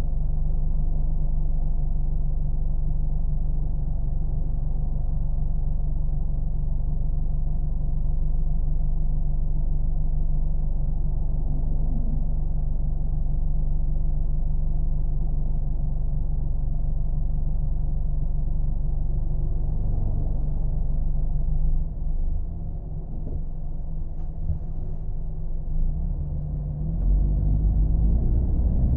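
Car engine and road noise as heard on a drive: a steady low rumble that eases slightly past the middle and grows louder near the end.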